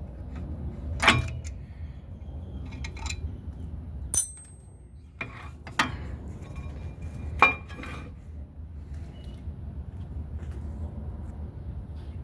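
Metal tools and brake parts clinking and knocking as the brake assembly is taken apart, a few separate sharp strikes, one with a short bright ring about four seconds in, over a low steady hum.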